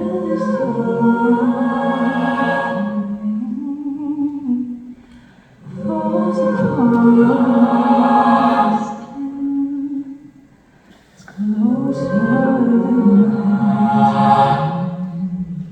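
A cappella vocal group singing wordless, sustained chords with a low bass line beneath, in three long phrases separated by short breaks.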